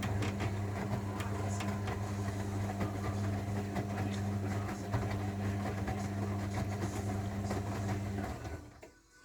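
Zanussi washing machine running with a steady hum and light rattling, which stops about eight seconds in.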